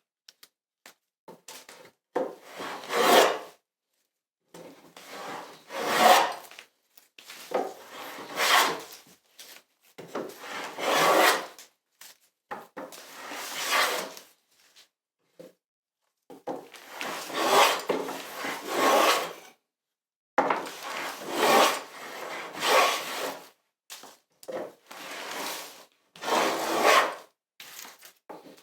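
A hand tool drawn along a wooden molding in repeated single strokes, each about a second long and swelling as it goes, about every two seconds with short pauses between.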